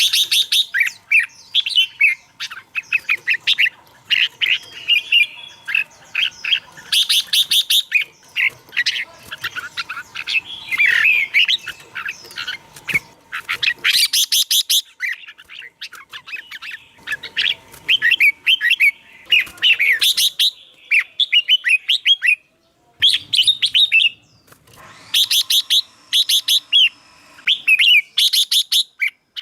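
Red-whiskered bulbul singing: a long run of quick, clear whistled phrases and rapid trills, one after another, with a couple of brief pauses near the end.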